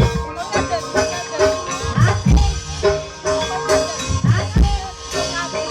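Javanese gamelan-type ensemble music of the kind that accompanies ebeg dance: deep hand-drum strokes over repeated mallet-struck metal or bamboo notes and a held ringing tone.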